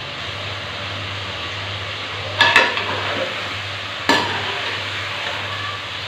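Chicken pieces sizzling as they brown in oil in a karahi, stirred with a spatula that knocks and scrapes against the pan twice, about two and a half and four seconds in. A steady low hum runs underneath.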